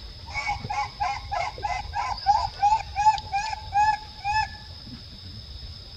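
A bird calling: a rapid series of about fifteen short, clear notes lasting some four seconds, over a steady high-pitched whine.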